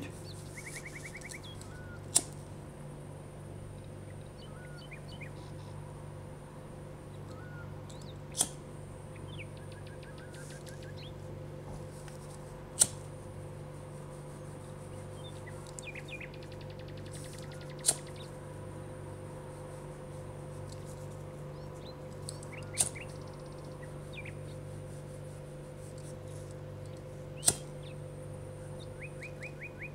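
Small birds chirping in short, rapid trills over a steady low hum, with a sharp click every four to six seconds.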